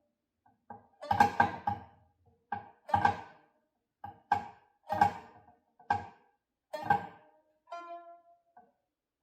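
A homemade plucked instrument being played: short plucked notes and quick clusters of notes in an uneven rhythm, each dying away fast. Near the end one higher note rings on for most of a second. Its notes are not yet precisely tuned.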